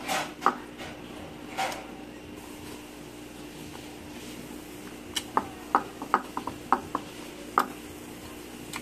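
Close-up mouth sounds of a person eating with their hands: wet lip smacks and chewing clicks, a scatter of short sharp clicks that bunch together in the second half. A faint steady hum lies underneath.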